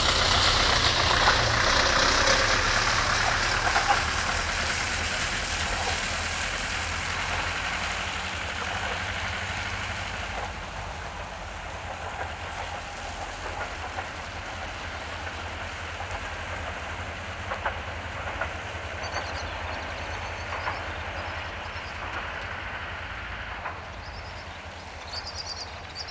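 Diesel-hauled passenger train pulling away and fading into the distance: a low engine hum and rolling wheel noise die away steadily. Later on, a few wheel clicks over rail joints come through.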